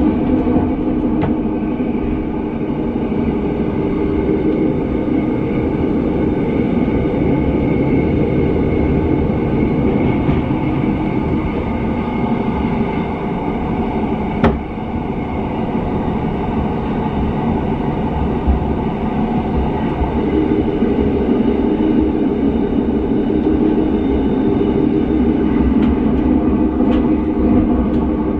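Train running along the track, heard from on board: a steady rumble of wheels and running gear, with one sharp click about halfway through.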